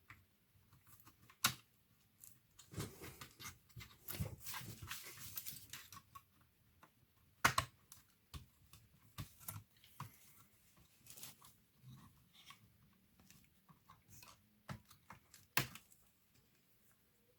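Irregular small clicks and taps with a stretch of rustling, from hands handling laptop parts during disassembly; two sharper clicks stand out, one about halfway through and one near the end.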